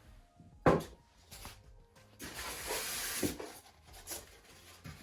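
Parts being handled while unboxing an RC plane kit: a sharp knock under a second in, then rustling like plastic packaging being handled, with a few lighter knocks.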